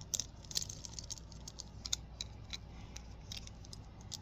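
Plastic fidget toys being handled and played with: light irregular clicks and rattles, a few per second.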